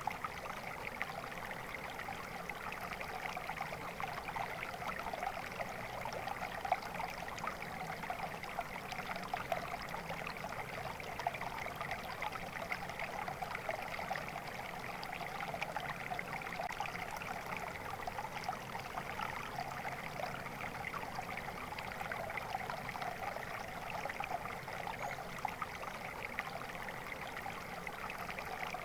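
Flowing water, a small stream running and trickling steadily with a constant bubbling splash.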